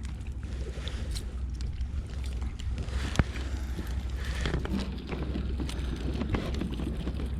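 Wind rumbling steadily on the microphone aboard a fishing kayak, with scattered light knocks and one sharp click about three seconds in.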